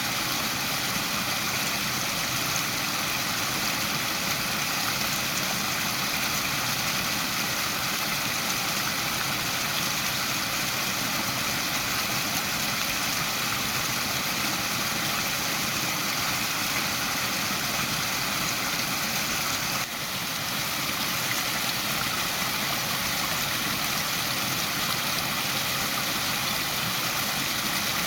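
Waterfall: a steady rush of falling water, with a brief dip in level about twenty seconds in.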